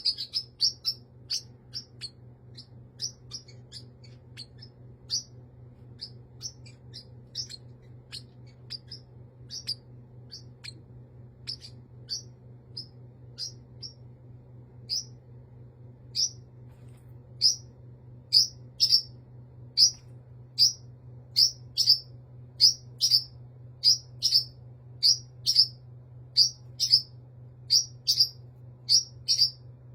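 A bird's short, high chirps repeated over and over: scattered at first, then about two a second and louder through the second half. A steady low hum runs underneath.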